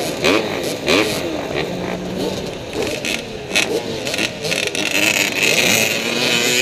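Several dirt-bike engines revving, their pitch rising and falling in quick overlapping swoops with short blips of the throttle.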